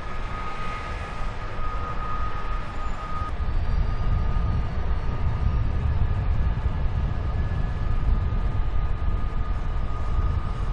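SNCB/NMBS class 18 electric locomotive 1868 moving through the station with its train: a steady low rumble of wheels on track that grows louder about three and a half seconds in and holds.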